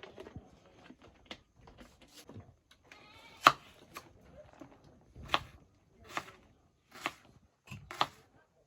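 A run of sharp knocks, roughly one a second, starting about three and a half seconds in; the first is the loudest. Just before them comes a brief wavering pitched sound.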